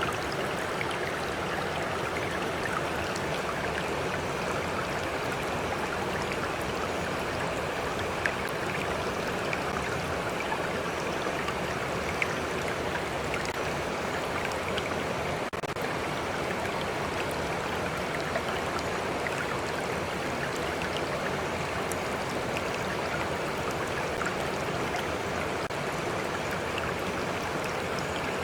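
Stream flowing: a steady rush of running water, with a few small splashes and drips now and then.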